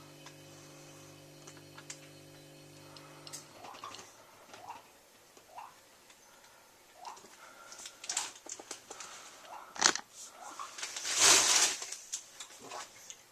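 Miele W3744 washing machine humming steadily with a slight pulse, cutting off about three and a half seconds in. After it come scattered light clicks and short whines, and a louder rush of noise near the end.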